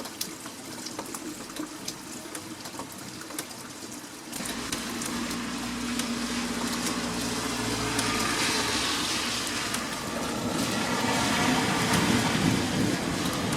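Heavy rain falling, with many drops pattering. About four seconds in, a louder rushing sound with a low rumble joins and builds through the rest.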